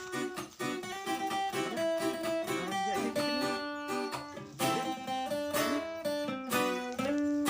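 Music: plucked acoustic guitar playing a quick melody of short notes.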